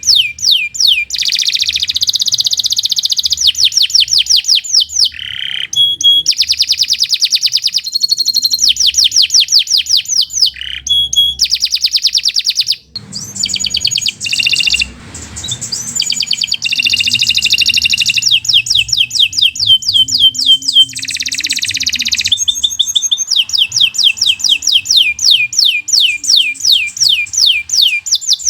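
Domestic canary singing a long, fast song: trills of rapidly repeated downward-sweeping notes, changing from phrase to phrase with brief pauses between them.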